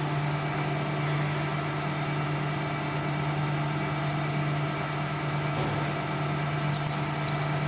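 Workshop machinery running with a steady hum, with a few faint clicks and a short hiss near the end.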